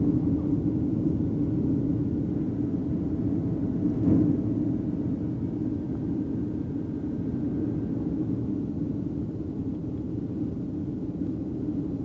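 Steady low rumble of an airliner heard from inside the passenger cabin on the landing approach: engine and airflow noise. It swells briefly about four seconds in, then slowly fades.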